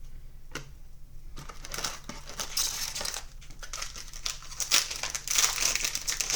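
Crinkling of a trading-card pack's plastic-foil wrapper being handled and torn open, a few light clicks at first, then continuous crackling that grows louder toward the end.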